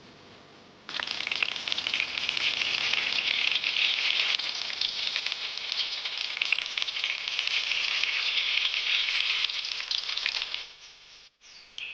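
Batter-coated flower petals frying in hot oil, a dense crackling sizzle that starts abruptly about a second in and dies away shortly before the end, with a brief flare-up right at the end.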